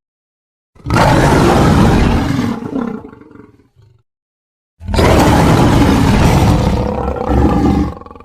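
Two big-cat roar sound effects, loud and rough. The first starts about a second in and trails off after about two seconds. The second starts near the middle, runs about three seconds and stops abruptly near the end.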